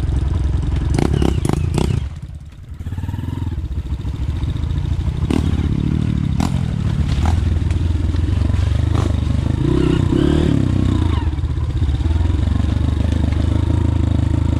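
Motorcycle engine running and revving on a muddy trail, easing off briefly about two seconds in before picking up again, with a few sharp clattering knocks.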